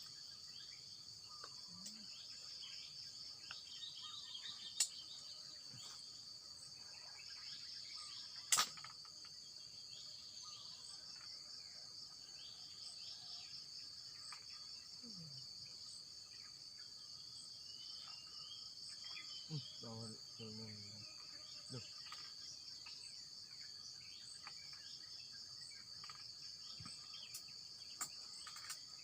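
Steady chorus of insects, a continuous high trilling buzz, with a couple of sharp clicks about five and eight and a half seconds in.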